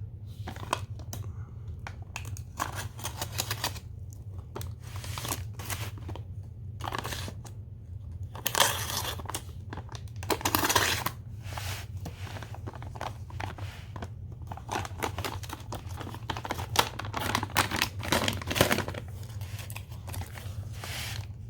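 Paper wrapping being torn and crumpled off the top of a consumer firework cake, in irregular rips and rustles, over a steady low hum.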